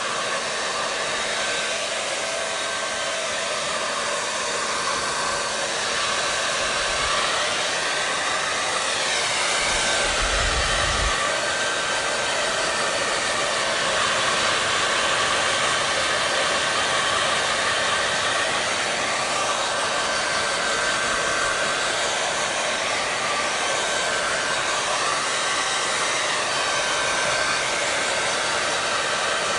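Electric hair dryer running continuously: a steady rush of air with a faint whine. Its tone shifts slowly a couple of times, and there is a brief low rumble about ten seconds in.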